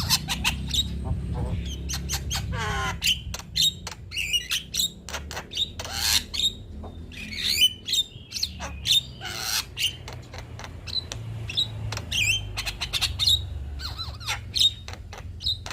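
Male Javan myna singing a rapid, varied song of sharp clicks, short whistles and harsh squawks, with a steady low hum underneath.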